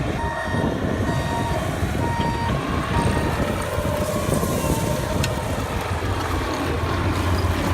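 Construction machine engine running steadily, with a reversing alarm beeping a handful of times in the first three seconds or so.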